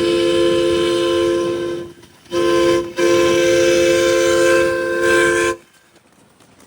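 A 7.5-inch gauge miniature train's whistle sounding a three-note chord in three blasts: long, short, long.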